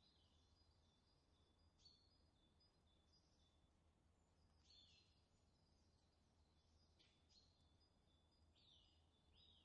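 Near silence with faint birds chirping: short high notes repeated over and over, and now and then a quick downward-sliding call.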